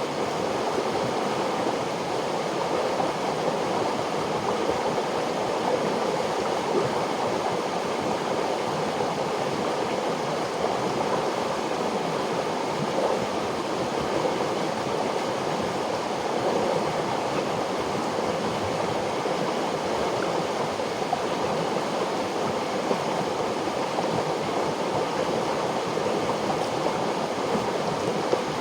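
River water flowing and rushing steadily, an even rushing sound with no breaks.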